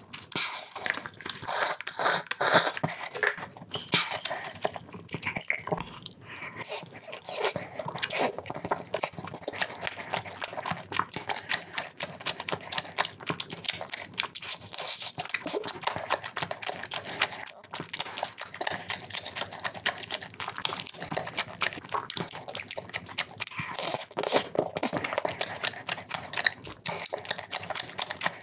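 Close-miked chewing of a full mouthful of chewy tteokbokki rice cakes and sausage: dense, rapid wet smacks and clicks.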